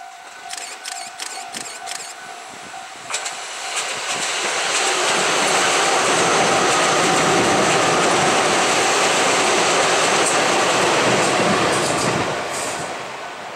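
Tobu 20050 series electric commuter train passing close by at speed. A steady whine and clicks of wheels on the rails come first. The running noise of the cars then builds about three seconds in, stays loudest for several seconds as the train goes by, and fades near the end.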